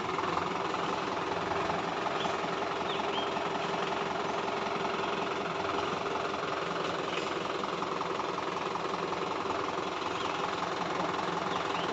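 Diesel tractor engine running steadily at an even, unchanging speed.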